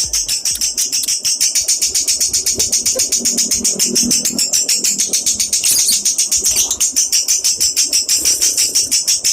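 Lovebird chattering in a long, fast, unbroken run of high chirps, about ten a second: the sustained 'ngekek' song that lovebird keepers train for.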